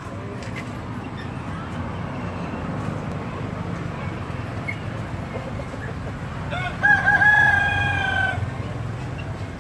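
A rooster crowing once, about seven seconds in: a few short stuttering notes, then one long note that falls slightly. A steady low rumble runs underneath.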